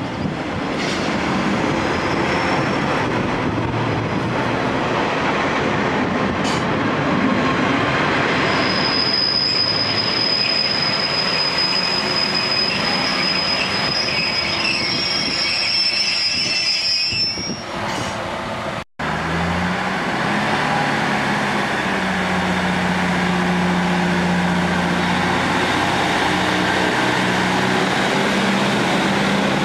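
A Class 142 Pacer diesel train pulls into the platform. About nine seconds in, a long, steady high squeal from its brakes and wheels starts as it slows, and it stops a few seconds before the cut. After a sudden cut, a diesel multiple unit stands at the platform with its engine idling steadily at a low pitch.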